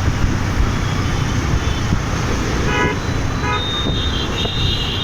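Road and wind rumble from riding a motorbike through city traffic. Two short vehicle horn toots come about three seconds in, followed by shrill high-pitched horn tones near the end.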